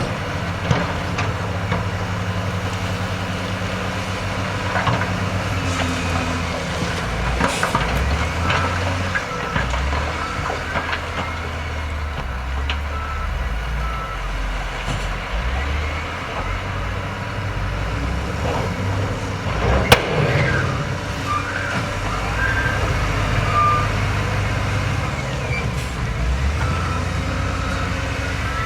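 Heavy diesel earthmoving machinery running under shifting load, with a deep engine rumble that rises and falls. A reversing alarm beeps intermittently, mostly in the later part. One sharp clank about two-thirds of the way through is the loudest sound.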